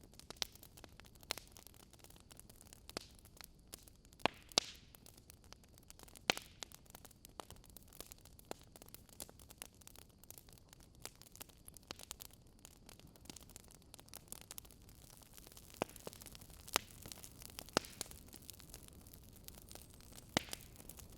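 Firewood burning, crackling with irregular sharp pops and snaps over a soft steady hiss.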